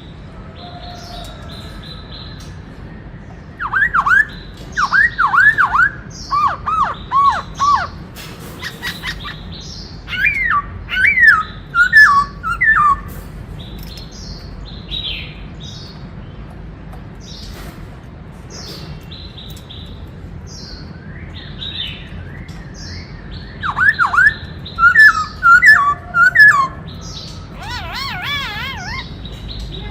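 Black-throated laughingthrush (khướu bạc má) singing: loud bouts of swooping whistled notes, three times, with a wavering trill near the end.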